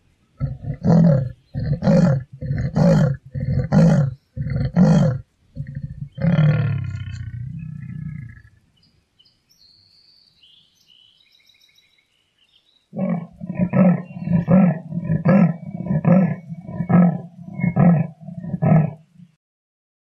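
Leopard's rasping sawing call: a run of harsh grunting strokes about one a second, ending in one longer drawn-out stroke, then after a pause of a few seconds a second, quicker run of about two strokes a second.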